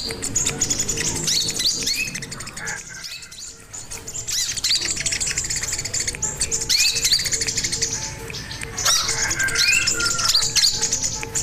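Sogon (crimson sunbird) singing: rapid, high-pitched chirps and short trills, with a brief lull about three seconds in.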